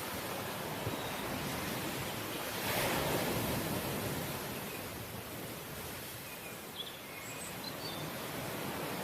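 Ocean surf washing steadily, with a wave breaking louder about three seconds in. A few faint, short, high chirps sound near the end.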